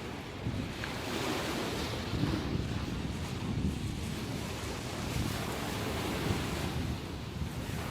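Sea waves breaking and washing on the shore in swells, with wind buffeting the microphone.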